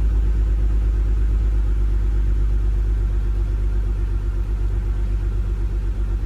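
BMW 128i's N52 straight-six engine idling with a slightly uneven pulse. It is running rough from a cylinder 6 misfire after a spark plug change.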